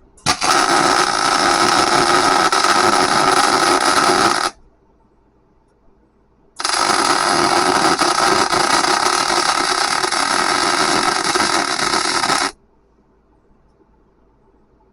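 MIG welder running weld beads on a steel forklift rim: two steady arc hisses with crackle, the first about four seconds, the second about six, each starting and stopping sharply as the trigger is pulled and released.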